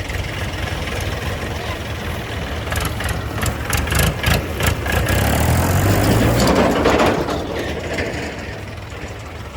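Heavy diesel engine running, with a run of sharp knocks and clanks about three to five seconds in, then the engine working harder and louder for a couple of seconds before easing off.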